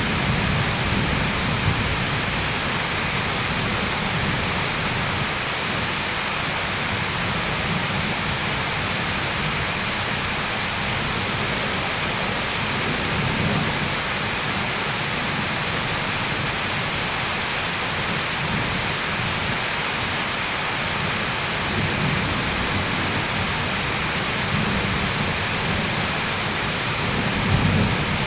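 Heavy, steady rain with low rolls of thunder swelling now and then, near the start, about halfway through, and again toward the end.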